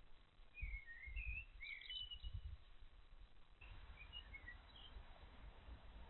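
Small garden birds chirping faintly: a quick run of short chirps, then a few more about four seconds in, over a low rumble.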